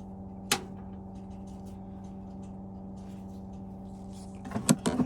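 Small metal clicks from a screw and screwdriver being handled while the ignition electrodes come off a gas boiler burner: one click about half a second in, then several quick clicks near the end. A steady low hum runs underneath.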